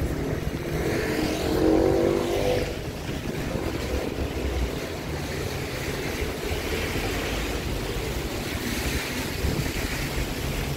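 Street traffic on a wet road: a vehicle passes about two seconds in, its engine note rising briefly, over a steady hiss and rumble of road noise.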